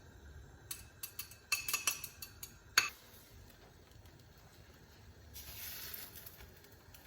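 Light clatter of small hard objects being handled: a quick run of clicks ending in one sharp click, then a short hiss a few seconds later.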